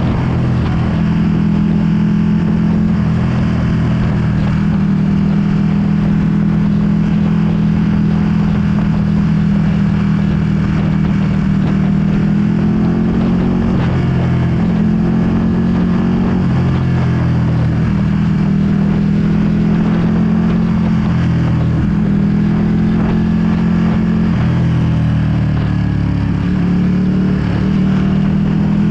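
A 2020 Ducati Panigale V2's 955 cc L-twin engine with a full Akrapovic exhaust, running under way at fairly steady revs. Its pitch rises and dips gently a few times with the throttle, over wind noise on the microphone.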